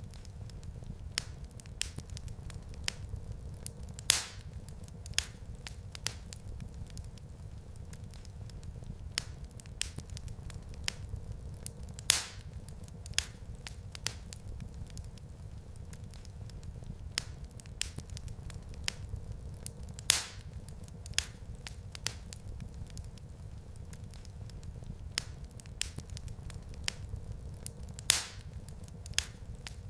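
Wood fire crackling in a fireplace: a steady low rumble of flames under a scatter of small crackles, with a loud sharp pop about every eight seconds.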